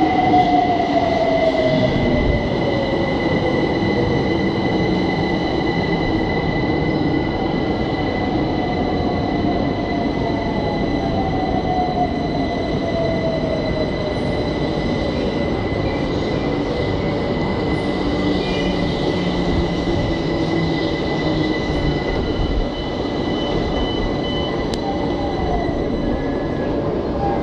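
London Overground Class 378 electric train pulling into an underground platform and braking to a stop: its motor whine falls in pitch over the wheel and track rumble, with a steady high tone throughout. The train goes a little quieter near the end as it comes to rest.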